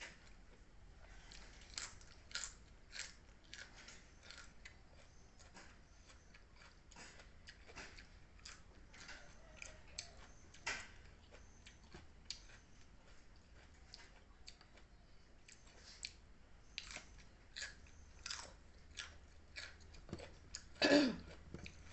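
A person eating close to the microphone: irregular chewing, soft crunches and wet lip smacks. Near the end comes a brief, louder mouth or voice sound.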